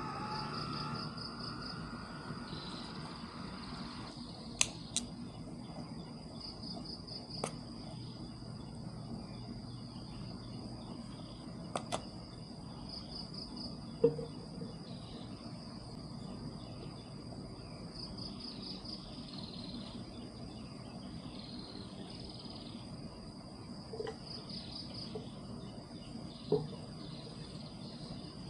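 Insects chirping: a steady high-pitched trill with a louder pulsing trill about every six seconds. A few sharp clicks stand out, and a lower hum stops about four seconds in.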